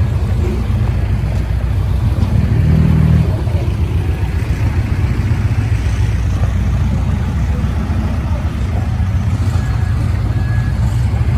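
Heavy construction machine's diesel engine running steadily at a low pitch, a little louder for about a second around three seconds in.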